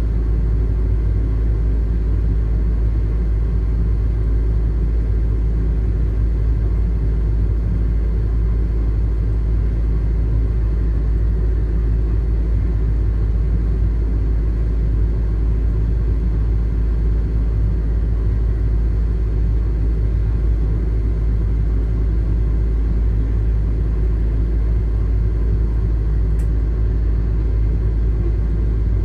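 Loaded iron-ore freight train rolling past, a steady heavy low rumble.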